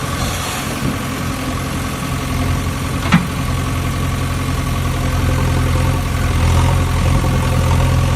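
Steady idling-engine rumble, with one sharp click about three seconds in.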